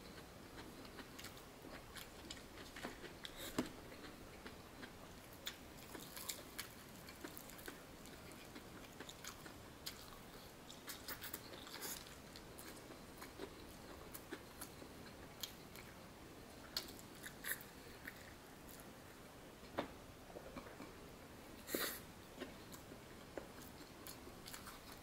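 A person eating coleslaw and fried chicken: faint, close chewing and biting with scattered short crunches and clicks.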